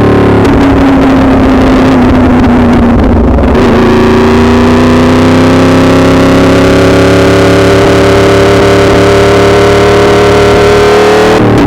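Yamaha R1's inline four-cylinder engine running loud under way. Its pitch sags slightly, jumps up about three and a half seconds in, climbs slowly for several seconds, then drops sharply near the end.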